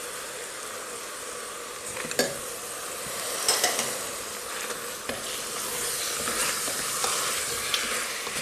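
Chopped onion and tomato frying in hot oil with browned beef and bacon in a steel pot: a steady sizzle, while a spoon stirs through the food and knocks against the pot a few times.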